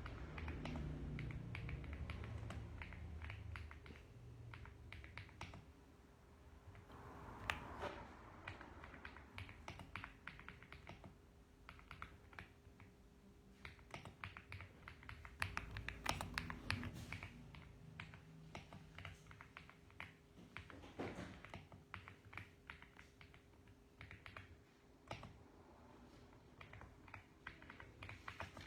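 Mechanical keyboard typing: irregular runs of quick keystroke clicks with short pauses between them. A low rumble sits under the first few seconds.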